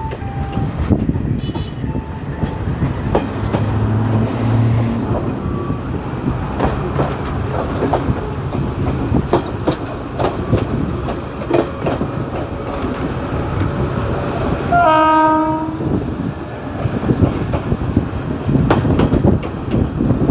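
Local passenger train running along the rails, its wheels clicking over the rail joints under a continuous rumble. The train's horn sounds once for about a second about three-quarters of the way through.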